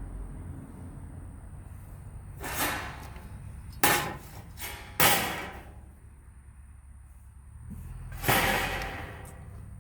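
Thin sheet metal being handled and worked by hand: four separate scraping, clanking noises, two of them sharp-edged, about a second apart in the middle, then a last one near the end.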